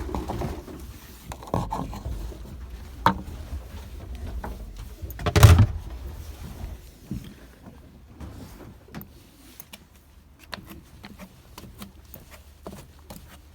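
Scattered knocks and clicks of someone moving about in a pigeon loft, with one loud, deep thump about five and a half seconds in.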